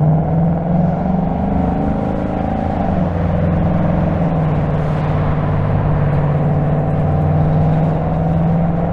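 2025 Ford Mustang GT's 5.0-litre V8 running at a steady cruise, its note dipping slightly about three seconds in and then holding steady.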